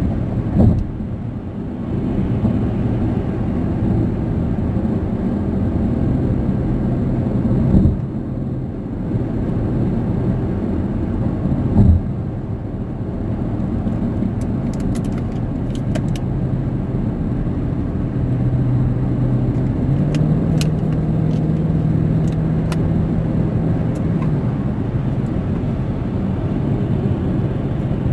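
Car driving at speed, heard from inside the cabin: a steady drone of tyre and engine noise. There are a few brief thumps, and the engine note rises a little about twenty seconds in.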